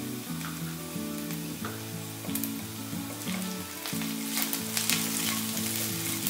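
Diced vegetables and raw peanuts frying in oil in a wok, sizzling, while a wooden spatula stirs and scrapes them around the pan, the scraping strokes coming thicker from about two seconds in. Soft background music of held low notes runs underneath.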